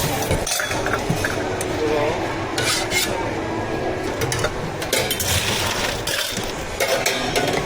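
Work noise at a drink-making counter: scattered clinks, knocks and scraping of utensils and cups.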